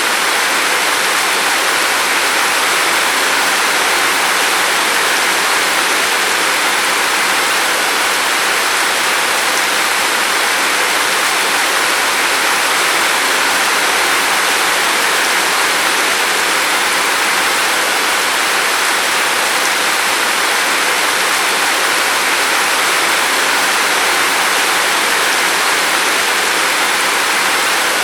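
Steady rain falling, an even, unbroken hiss with no separate drops or pauses.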